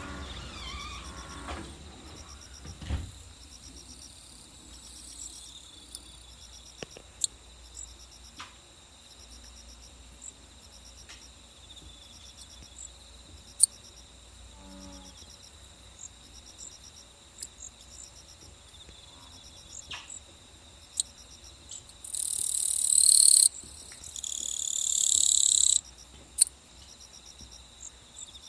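Insects chirping in a steady, evenly repeating high pattern, with scattered sharp clicks. Two loud, high buzzes, each lasting about one and a half to two seconds, come close together near the end.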